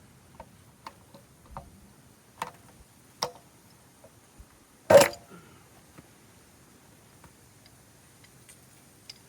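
Scattered metallic clicks and knocks of a wrench on scrap metal while a threaded fitting is worked loose, with one loud ringing clank about five seconds in.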